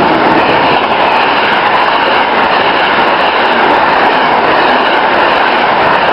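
A train running through the station at speed, right past the platform: a locomotive and then passenger coaches, a loud, steady rush of wheels on rail.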